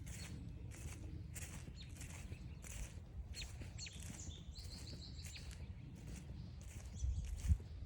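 Footsteps crunching along a forest trail, about two a second, while small birds call: several short, high falling chirps and a buzzy high trill about halfway.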